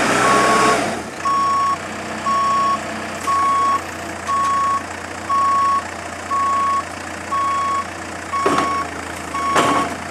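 Komatsu WB142 backhoe loader's reversing alarm beeping steadily, a little faster than once a second, over the diesel engine running. Two short noisy bursts come near the end.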